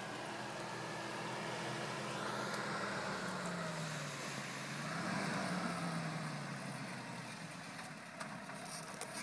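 Suzuki Sierra (Samurai) engine running at low revs as the 4x4 creeps down a muddy track. Its pitch dips about four seconds in, then rises again.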